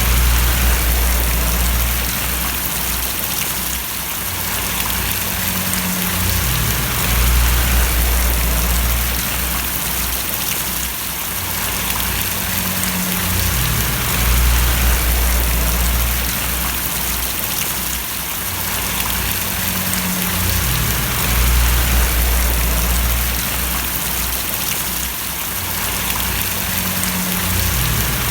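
Steady rain falling and splashing, an even hiss, with a deep rumble underneath that swells and fades about every seven seconds.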